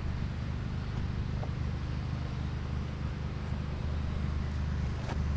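Steady low rumble of road traffic, with a faint click or two.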